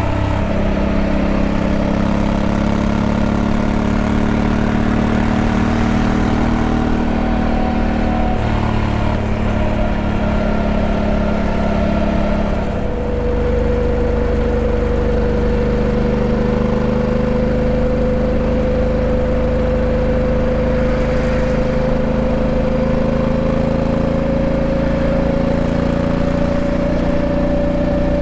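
Honda Africa Twin 1100's parallel-twin engine running steadily. Its note shifts about halfway through, with a brief dip in loudness, then climbs slowly in pitch.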